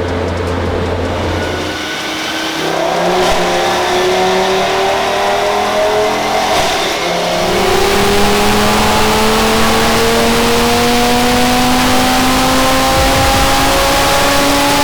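Turbocharged Audi TT RS five-cylinder engine at full throttle on a chassis dyno, revs climbing steadily through a pull. About seven seconds in the pitch drops as it grabs the next gear, then climbs again.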